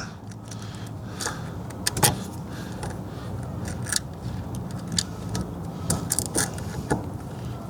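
Irregular light clicks and clatter of hand tools and small metal parts being handled during reassembly of the steering column, over a low steady hum.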